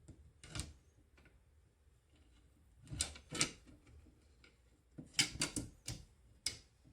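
A series of about eight sharp clicks and snaps in irregular groups: a single one near the start, a pair around the middle and a quick cluster of four or five near the end.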